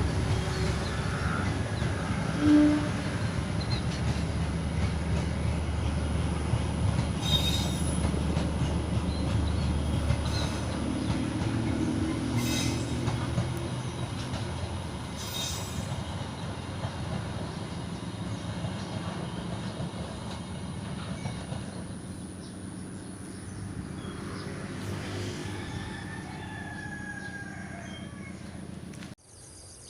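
Train running on the rails with a steady low rumble and a few brief high wheel squeals, growing gradually quieter; the sound cuts off abruptly near the end.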